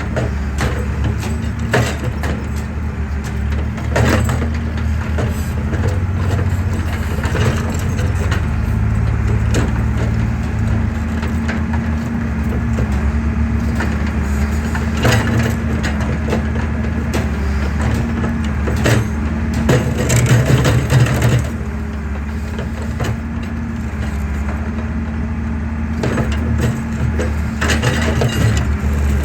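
Excavator's diesel engine running steadily while concrete is crushed and broken, giving irregular crunches and sharp cracks throughout, with a dense run of loud crunches about 20 seconds in.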